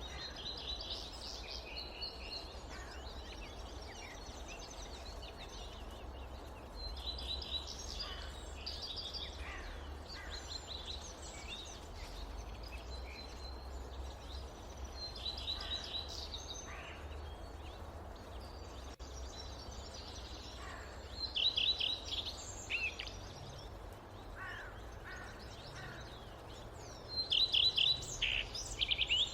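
Small forest birds chirping and twittering in quick runs of notes, with louder bursts twice near the end, over a steady low rumble of wind.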